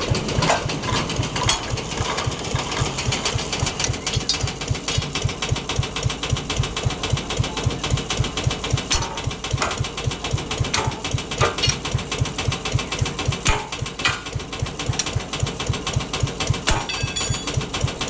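A small engine running steadily with a fast, even pulse, with a few sharp metallic clicks over it in the later part.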